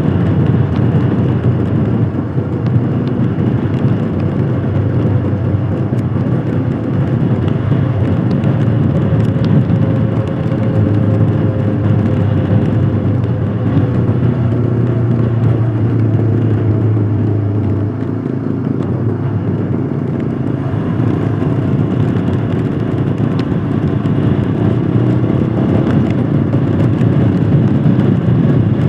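Royal Enfield Himalayan Scram 411's single-cylinder engine running under way, a steady low rumble mixed with road and wind noise. It eases off for a moment about 18 seconds in, then picks up again.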